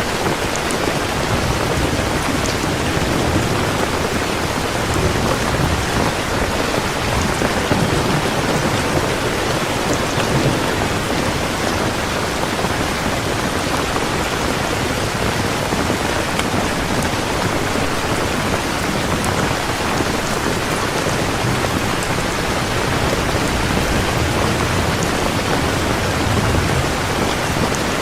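Heavy rain pouring steadily, a dense even hiss with a low rumble underneath that swells at times.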